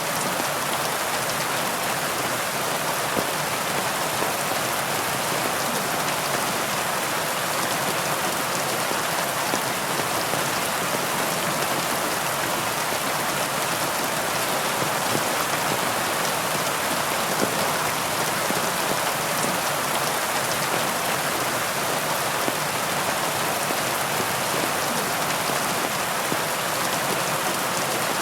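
Heavy rain falling steadily: a dense, even hiss of drops with many small individual drop ticks through it.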